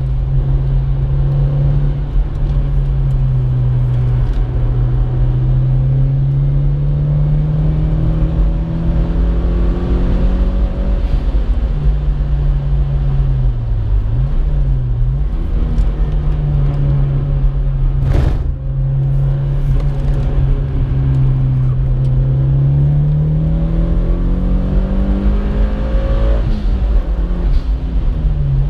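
Mitsubishi Lancer Evolution IX's turbocharged four-cylinder engine heard from inside the cabin while lapping a track, over constant road and wind rumble. The engine note mostly holds steady, dips and recovers twice about halfway through, then climbs near the end and drops sharply at a gear change. There is a single sharp click about two-thirds of the way in.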